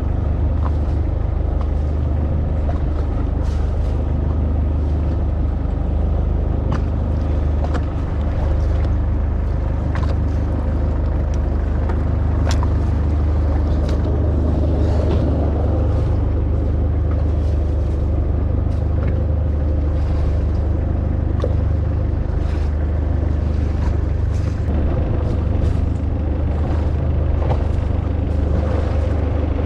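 Boat engine running steadily under way, a loud low drone, with scattered light knocks and clicks over it.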